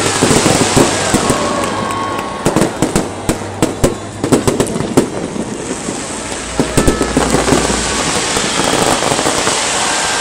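Aerial fireworks display: rapid sharp bangs and crackling over a continuous hiss. The bangs come thickest a few seconds in and again near the end.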